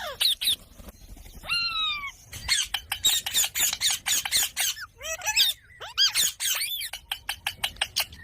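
Pet parakeet calling: a few short squawks that sweep sharply up or down in pitch, then a fast run of short chirps and clicks, and several arching calls near the end.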